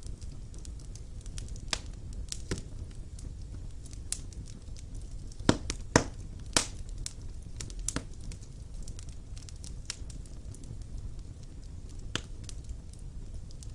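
Wood fire burning in a stone fireplace: a steady low rumble of flames with irregular crackles and sharp pops, a cluster of louder pops about halfway through.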